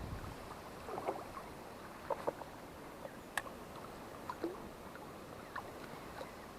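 Faint water lapping with scattered small splashes and drips, plus a single sharp click a little past the middle.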